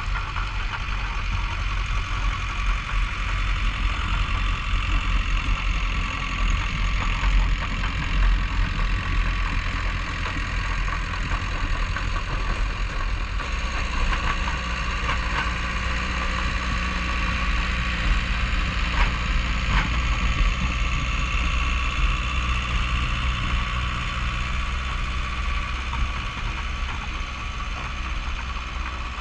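Bulldozer's diesel engine running steadily during snow clearing, with a few short knocks about halfway through.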